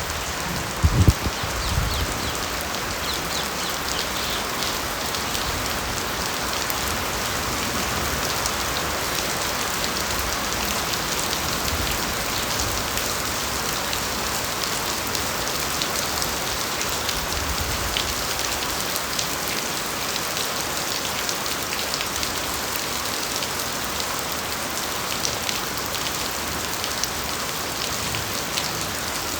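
Steady rain falling on bamboo foliage, with many separate drops ticking over an even hiss. A few low thumps in the first two seconds.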